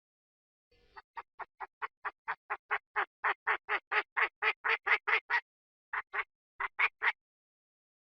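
Chinese francolin calling: a fast run of harsh, cackling notes, about five a second and growing louder. After a short pause a few more notes come in pairs.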